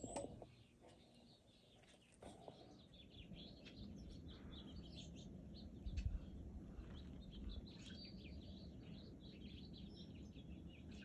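Faint birds chirping, many short high chirps in quick succession from a few seconds in, over a low steady rumble. There is a soft thump about six seconds in.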